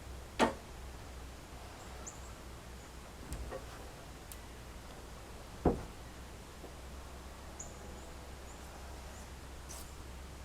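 Two sharp knocks about five seconds apart, with a weaker one between, over a steady low hum and faint short high chirps.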